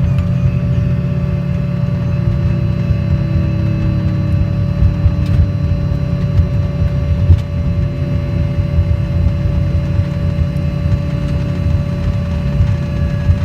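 Airliner engines and airframe heard inside the passenger cabin: a steady deep rumble with a constant high whine over it, and a few lower tones slowly falling in pitch.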